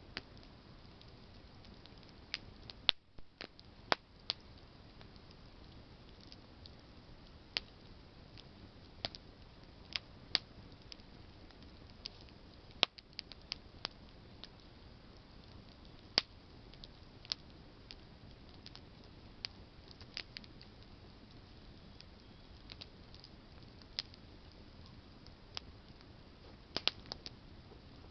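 Wood campfire of burning branches crackling: irregular sharp pops and snaps, some single and some in quick little clusters, over a low steady hiss of the flames.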